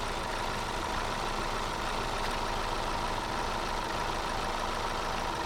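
Buick Excelle four-cylinder petrol engine idling steadily; the engine has an intermittent misfire on cylinder 3, traced to the integrated ignition coil's driver transistor not switching on.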